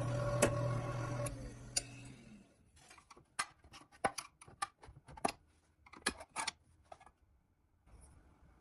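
A small electric motor running steadily, then switched off and spinning down, with a few sharp clicks. After that comes a string of about a dozen light, irregular clicks and taps, like small hard parts being handled.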